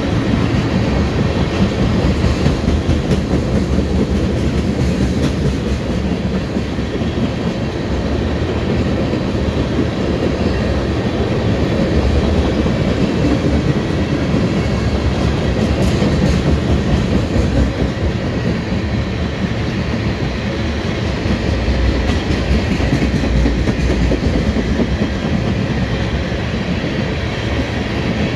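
Freight train of crude-oil tank cars rolling past, a steady, loud rumble of steel wheels on the rails.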